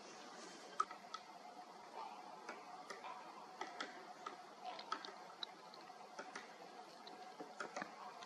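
Great spotted woodpecker making short, sharp ticks at irregular intervals, sometimes several in quick succession.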